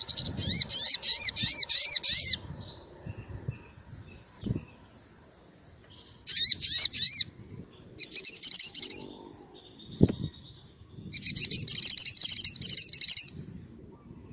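Sogon sunbird singing its sharp, fast song: three bursts of rapid, repeated, ringing high notes, the first and last about two seconds long and a shorter one in between. Two short knocks fall in the pauses.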